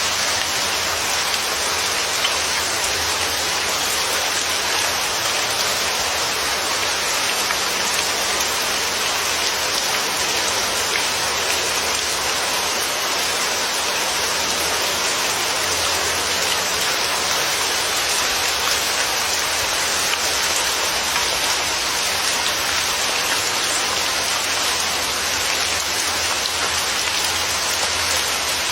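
Steady, even rain falling with a dense patter of raindrops.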